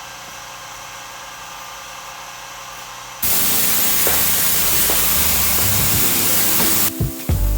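Pressure washer spray blasting dirty floor mats: after a steady hum, a loud hiss starts suddenly about three seconds in and cuts off abruptly after about three and a half seconds.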